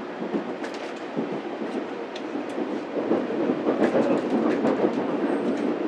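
Sanyo Shinkansen train running on elevated track, heard from inside the passenger car: a steady rumble with sharp clicks from the wheels on the track, growing louder and busier about halfway through.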